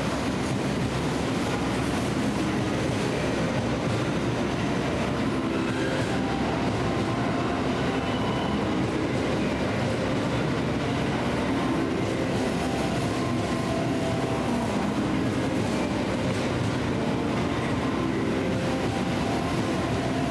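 Train running past, a steady rumble and hiss throughout with short whining tones that come and go at shifting pitches.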